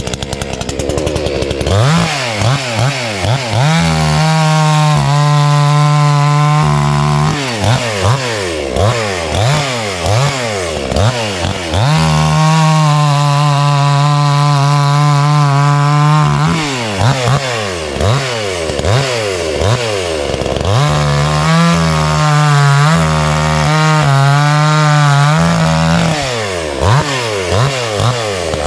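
Two-stroke gas chainsaw of about 60 cc, revved up and down in quick blips, then held at full throttle for several seconds at a time, three times over, as it cuts through a log.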